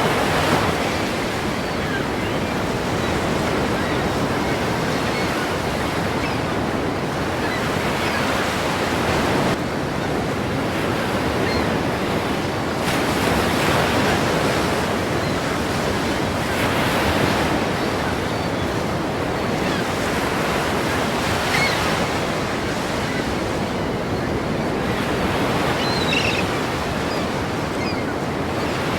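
Ocean waves crashing, a continuous rush of surf that swells and ebbs every few seconds.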